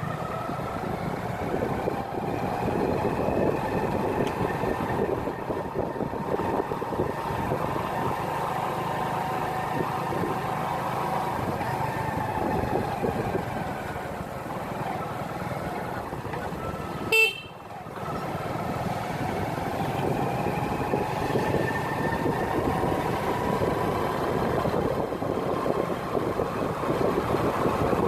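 Honda Pridor motorcycle running along a road, with engine and wind noise. The engine's pitch sinks toward the middle and climbs again. About 17 seconds in, a short, loud horn beep sounds.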